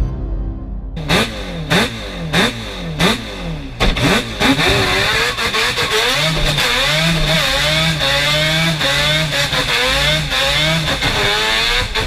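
Four-rotor Mazda rotary racing engine. It blips the throttle in a few short revs, then accelerates hard, its pitch climbing and dropping back again and again as it shifts up through the gears.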